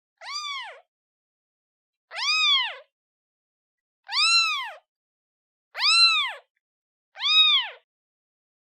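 Newborn kitten meowing for its mother: five short, high meows, each rising then falling in pitch, about one every one and a half seconds with silence between.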